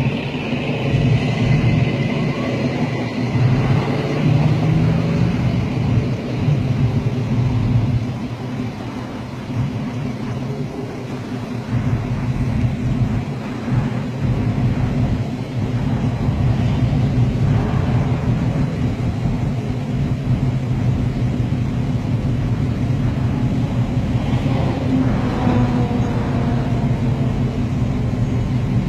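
Engines of a queue of Pontiac Trans Ams and Firebirds idling and creeping forward, a steady low rumble with cars pulling past close by.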